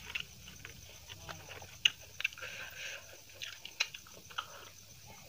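Close-miked eating sounds: a mouthful of rice being chewed with wet smacks and sharp clicks of the lips, the loudest a little under two seconds in and a few more near the end.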